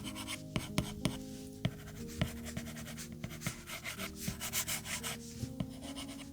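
Light rubbing and scratching, with a few sharp little taps, from hand work with craft materials, thickest in the middle; calm background music with held tones underneath.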